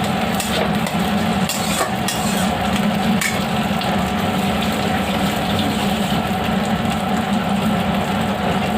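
Mashed boiled potatoes and fried onions sizzling steadily in a pan over a steady low hum, with a few scrapes or knocks of the spatula in the first few seconds.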